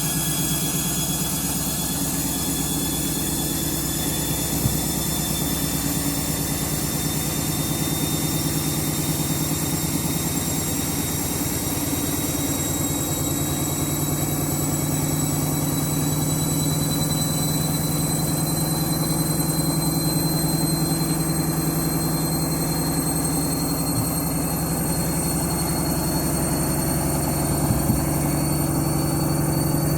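Washing machine on its spin cycle: a steady motor hum with a whine that climbs slowly in pitch as the drum speeds up, and a few short knocks.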